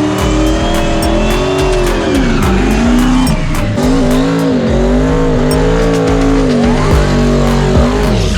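Race car engine revving, its pitch rising and falling repeatedly, over music with a steady beat. The sound changes abruptly at the very end.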